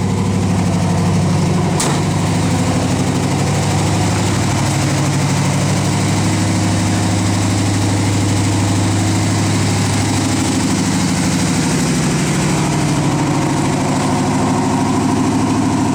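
1969 Ford F250's engine idling loud and steady as it warms up just after a cold start, its speed wavering slightly about two-thirds of the way through. A single sharp click sounds about two seconds in.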